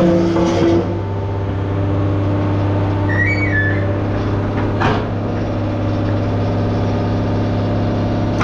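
An engine running steadily with a low, even drone. A brief high squeak comes about three seconds in, and a short click near five seconds.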